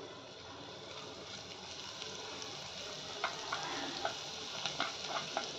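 Spice masala frying in hot oil in a clay pot, a steady sizzle while a wooden spoon stirs it. From about halfway, short crackles and spoon taps come more often.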